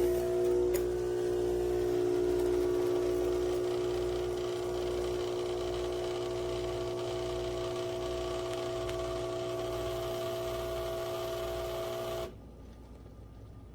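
Philips Series 3300 automatic espresso machine running with a steady hum and a low pulse, then stopping abruptly about twelve seconds in.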